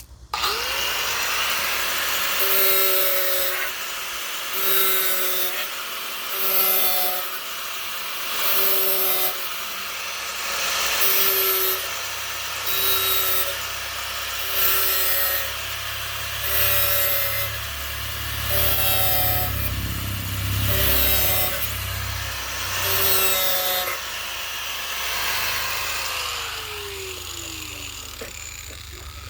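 Power tool cutting in repeated strokes about every two seconds. Its motor starts up at the beginning and winds down with a falling pitch over the last few seconds.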